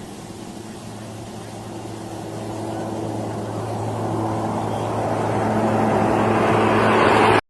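Aircraft engines: a steady low hum under a rushing noise that grows steadily louder over several seconds, then cuts off abruptly at the end.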